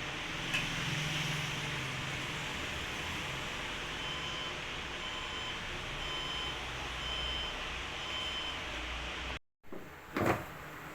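HP desktop's internal speaker sounding about five short beeps roughly a second apart over the steady hum of its running fans: the five-beep memory error code, which here comes from two faulty memory slots. A brief knock follows near the end.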